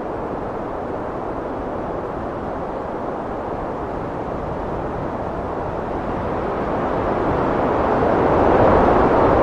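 Heavy wind blowing steadily, a low rushing noise that swells into a stronger gust over the last few seconds.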